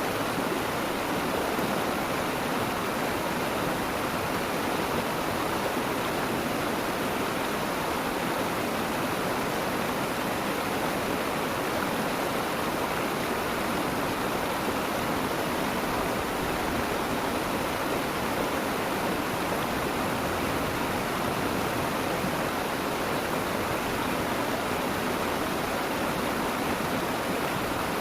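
Steady rush of flowing water in a stream, an even noise that holds unchanged throughout.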